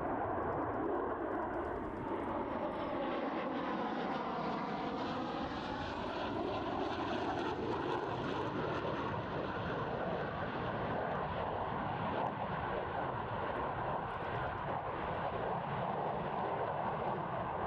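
Greek F-4 Phantom II's twin J79 turbojet engines in flight, a loud steady jet noise. Its tone sweeps and phases between about two and eight seconds in as the jet passes.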